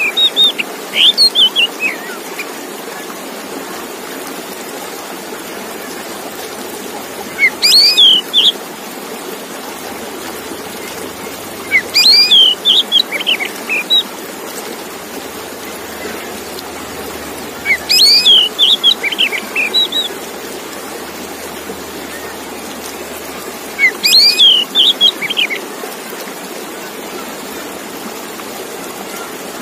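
Male oriental magpie-robin (kacer) singing: short phrases of varied, quickly changing whistled notes, repeated about every five to six seconds over a steady background hiss.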